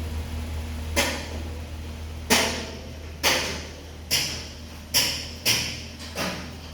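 About seven sharp strikes at irregular intervals, each with a short hissing decay, over a steady low hum.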